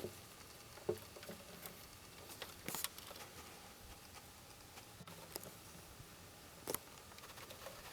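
Quiet background with a few scattered soft clicks and rustles, each brief and spaced a second or more apart.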